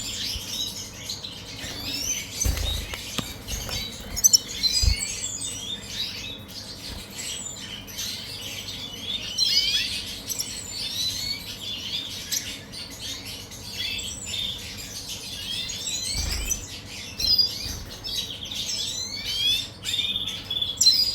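Several small cage birds chirping and twittering continuously in quick, overlapping short calls, with a few soft thumps from the cage, around the 3, 5 and 16 second marks.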